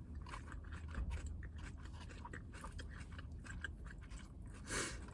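A person chewing a mouthful of salad close to the microphone: crunchy lettuce and a run of small, quick, moist clicks, with a short breathy rustle near the end.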